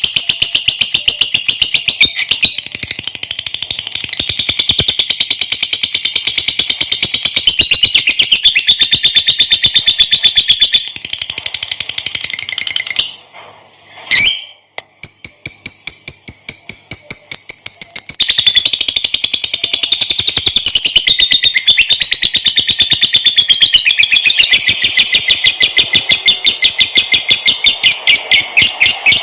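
Lovebird's long 'ngekek' chatter: a shrill, very fast run of repeated notes that goes on and on. It breaks off briefly about halfway through, then starts again.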